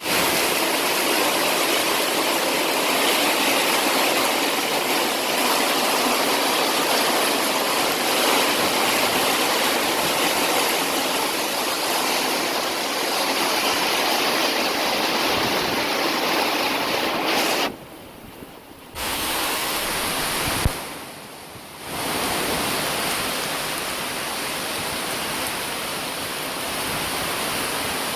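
Heavy rain pouring down in strong wind, a loud steady hiss. It drops away sharply twice, for about a second each, about two-thirds of the way in, with a single click between the drops.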